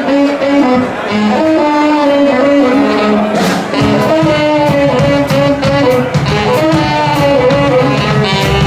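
Live band playing an instrumental passage with no singing: a horn lead line over guitar and a steady drum beat.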